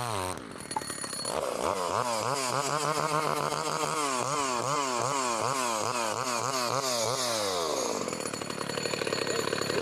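Komatsu Zenoah G380AVS two-stroke chainsaw engine being blipped, its pitch rising and falling about ten times in quick succession, then dropping back near the end.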